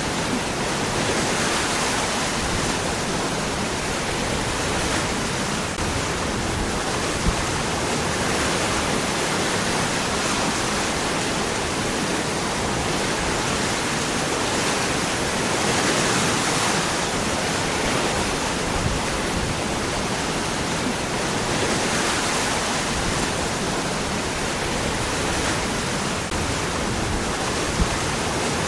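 Waterfall: water pouring steadily over and between rocks, an even rushing that swells and eases slightly every few seconds.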